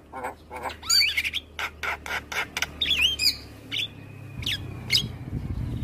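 Javan myna (jalak kebo) calling: a fast run of harsh squawks and clicking notes mixed with short rising and falling whistles.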